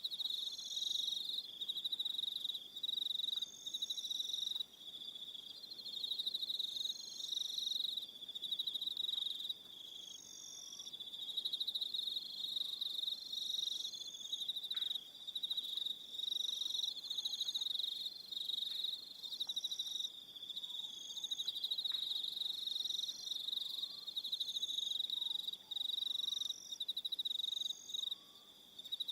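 A chorus of crickets trilling: a continuous high-pitched trill with further, higher trills starting and stopping in phrases of about a second, overlapping one another. A few faint, short lower calls are heard now and then beneath them.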